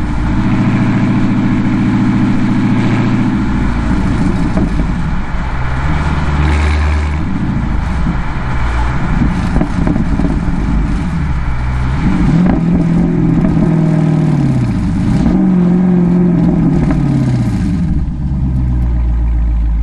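Dodge Challenger Scat Pack's 392 HEMI V8 through a Borla exhaust, running at low speed. Its pitch holds steady at first, then falls and rises several times as the car eases on and off the throttle and shifts.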